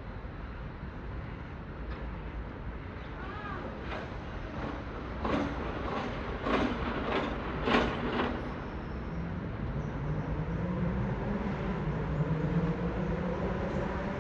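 A train moving on the station tracks. A quick series of clacks as its wheels cross rail joints, then a low drone that rises slightly in pitch.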